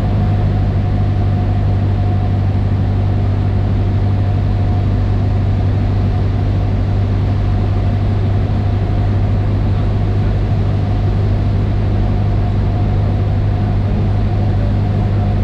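Cessna 152's four-cylinder Lycoming engine and propeller droning steadily, heard from inside the cockpit: a constant low hum with a thin steady tone above it.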